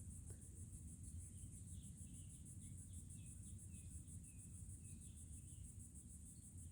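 Faint insect chorus, likely crickets: a steady, high-pitched pulsing trill, with short chirps scattered through the middle, over a low rumble.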